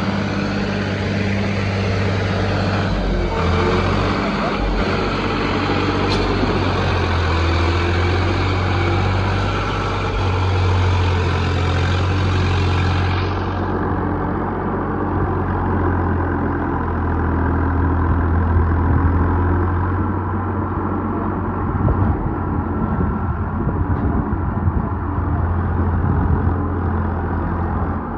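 Farmtrac 45 EPL tractor's diesel engine running steadily and loud, its engine speed shifting up and down a few times.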